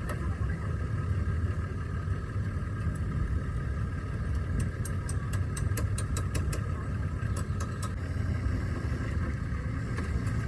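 An engine running steadily at idle, a low rumble, with a quick run of about a dozen sharp ticks near the middle.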